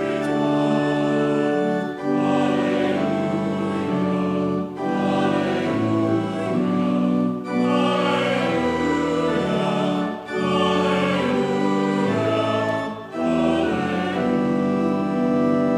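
A choir singing slow sacred music with organ accompaniment, in phrases of about three seconds with brief breaks between them.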